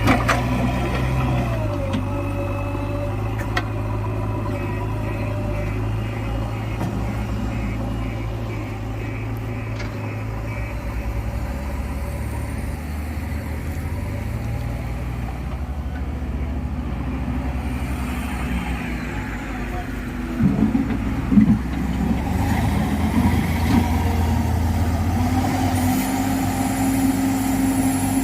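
Diesel engine of a JCB 3DX backhoe loader running under working load, its pitch shifting as the throttle changes, with a few loud knocks about two-thirds of the way through.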